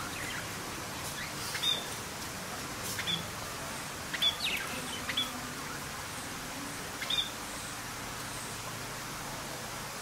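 Bird chirping: about half a dozen short, high chirps, scattered and loudest about four seconds in, over a steady faint hiss.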